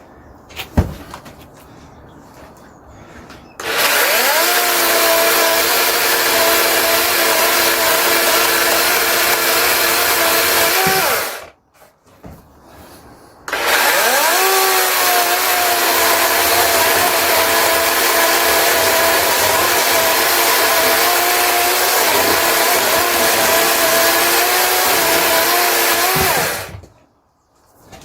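A DeWalt 18 V cordless chainsaw cutting logs, in two long runs with a pause of about two seconds between them. Each run starts with a rising whine as the electric motor spins up, then holds a steady whine with a little sag under load. There is a single knock about a second in.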